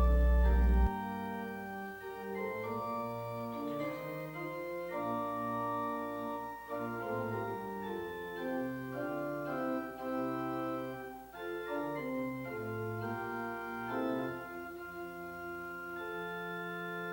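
Organ playing a hymn in sustained chords that change every second or so; a loud low bass chord cuts off sharply about a second in.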